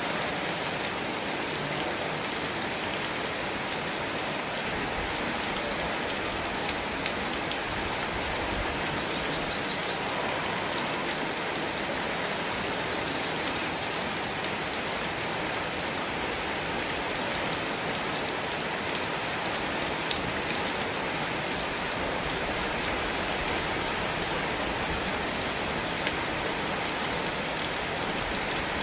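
Steady rain falling, with a few sharper single drop hits standing out now and then.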